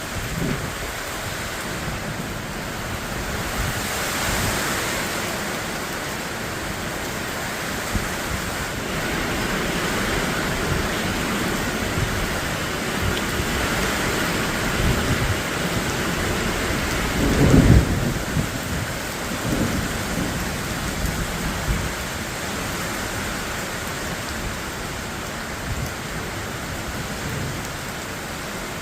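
Heavy rain pouring down, heard from inside a skid steer cab, with a low roll of thunder a little past halfway through.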